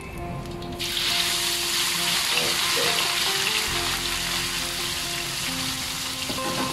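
Blended spice paste poured into hot oil in a wok, starting to sizzle loudly a little under a second in and frying steadily after that.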